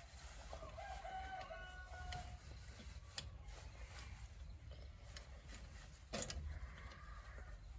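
A rooster crowing: one drawn-out call of about two seconds, with a fainter call near the end. A few sharp knocks sound in between, the loudest about six seconds in.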